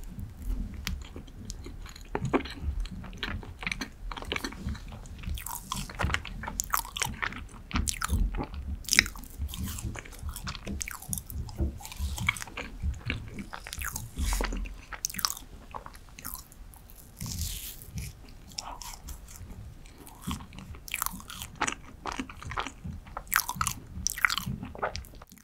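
Close-miked chewing and wet mouth sounds of someone eating dense dark chocolate cheesecake off a fork, with many small sharp clicks and smacks coming irregularly.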